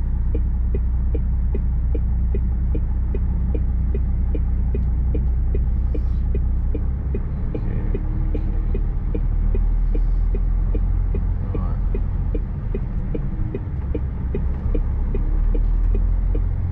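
Lorry's diesel engine idling, a steady low rumble heard from inside the cab, with the indicator or hazard-light relay ticking evenly about two to three times a second.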